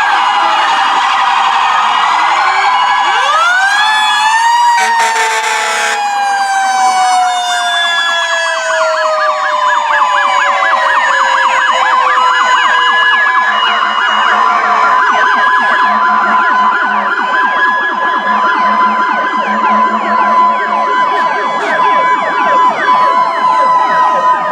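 Several fire truck and emergency vehicle sirens sounding at once: wailing sweeps and fast yelping warbles overlap. One siren winds up about three seconds in and then winds slowly down over the next several seconds.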